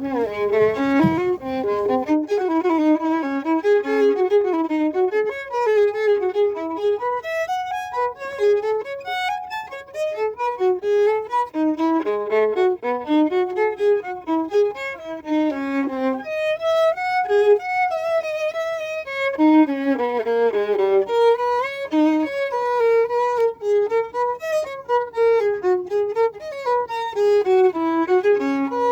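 Background music: a fiddle playing a fast, running melody.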